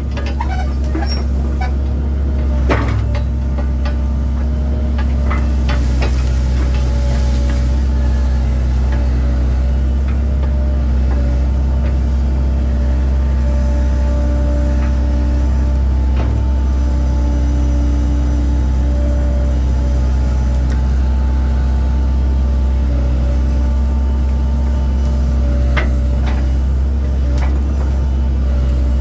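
Diesel engine of a 1997 Link-Belt 2700 excavator running steadily, a constant low hum with a steady whine above it and a few scattered knocks and clanks.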